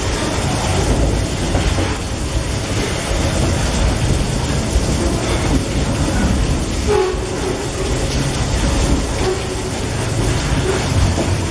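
Loaded freight wagons carrying eucalyptus logs rolling past, their steel wheels running steadily on the rails, mixed with heavy rain falling.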